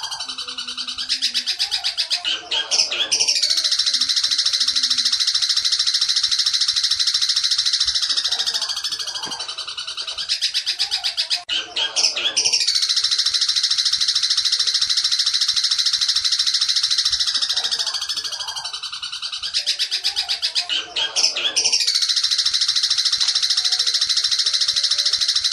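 Long-tailed shrike (cendet) singing a fast, dense, high-pitched chattering song in the 'petir' style, played as a training recording. The song runs in long unbroken stretches, with a brief break about every nine seconds.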